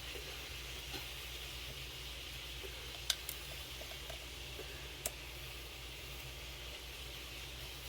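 Faint steady hum and hiss of the room, broken by two sharp light clicks about two seconds apart: small tools or RC parts being handled.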